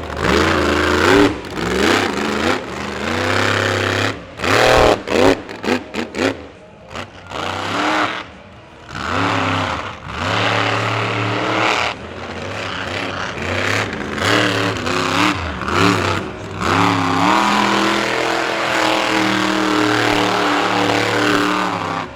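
Monster truck engine being revved hard, with a string of short throttle blips and rising and falling revs, then held at high revs for the last few seconds before cutting off sharply.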